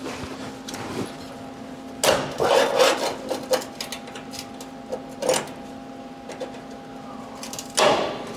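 A few sharp knocks and clatters of tools or metal parts being handled, the loudest a run of them about two seconds in and a single hard knock near the end, over a steady low electrical hum.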